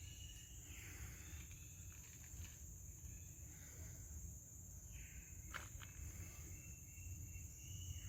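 Faint forest ambience: a steady high-pitched insect drone over a low rumble, with a few short falling calls about a second in, near five seconds and at the end, and one sharp click midway.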